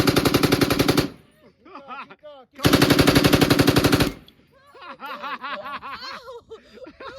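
A fully automatic firearm firing long bursts, about twelve shots a second: one burst ends about a second in, and a second runs from under three seconds to past four. Fainter rapid popping follows near the end.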